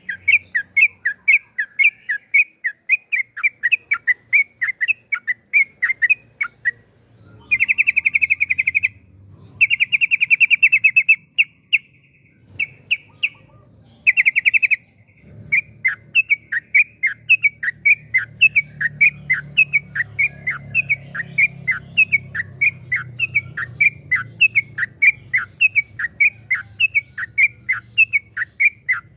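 Yellow-vented bulbul (trucukan) singing. It gives a steady series of short falling chirps, about three a second. In the middle these are broken by several rapid trills lasting a second or two each.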